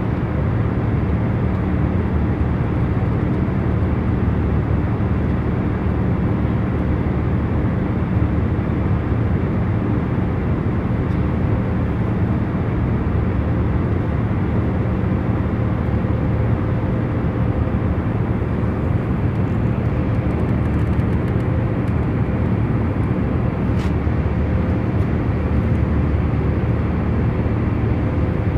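Airliner cabin in cruise: a steady low hum and rush of engine and airflow noise, even throughout, with a few faint steady tones in the hum.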